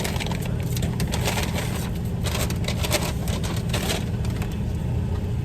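Steady low hum of a running car heard from inside the cabin, with scattered brief scratchy, rustling noises over it.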